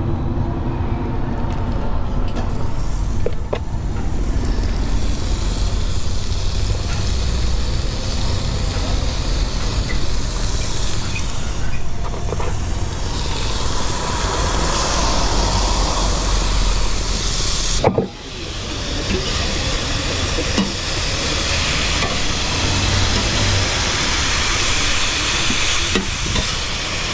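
Steady hissing noise over a low rumble of wind on the microphone, with an abrupt cut about 18 seconds in.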